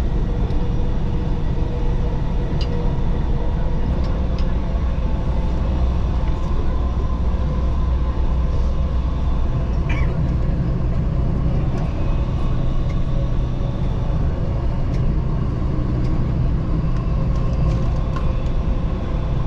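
Dubai Metro train running between stations, heard inside the carriage: a steady low rumble with faint steady whining tones above it.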